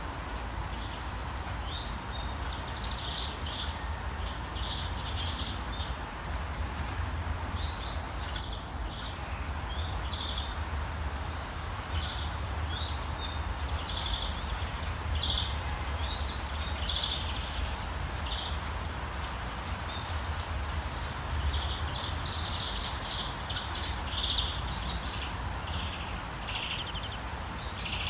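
Small birds chirping and twittering in short calls over a steady hiss of rain, with a brief, loud cluster of sharp high sounds about eight and a half seconds in.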